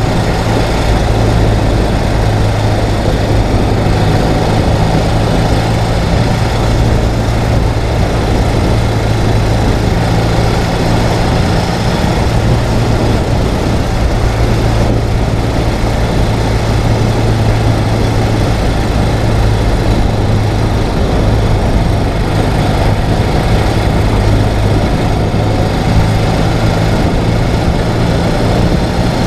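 Ural sidecar motorcycle's flat-twin engine running at a steady, unchanging pace, under a loud, even rush of wind and road noise.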